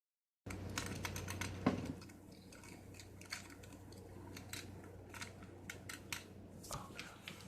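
Toy cars clicking and tapping as they are handled and set down one by one, in light, irregular clicks with one louder knock about a second and a half in.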